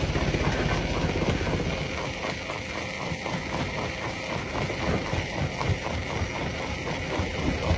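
Rock crusher running, with rapid, uneven knocking and clattering over a steady low rumble.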